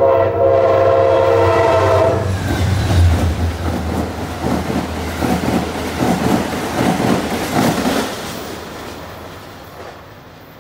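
Amtrak passenger train sounding a multi-tone horn chord for about two seconds as it approaches at speed. It then rushes past with a rapid run of wheel clacks over rail joints, and the sound fades away after about eight seconds.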